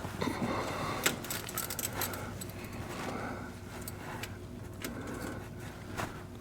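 Light metallic clinks and rattles of hand tools, with a few sharp clicks, as a fitting on the tractor is worked loose.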